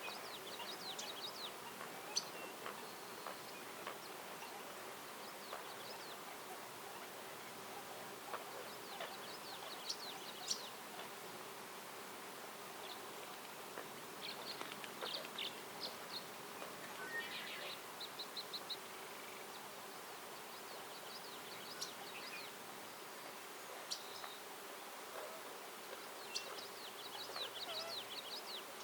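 Songbirds calling in short high chirps and quick trills at intervals, over a faint steady hiss of outdoor ambience.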